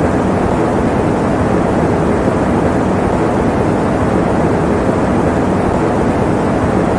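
Electric fan running steadily: an even, unchanging rush of air, low-pitched with little high hiss.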